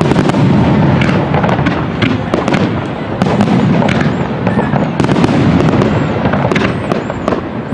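Fireworks display in a dense barrage: rapid overlapping bursts and continuous crackling, with a few short high whistles.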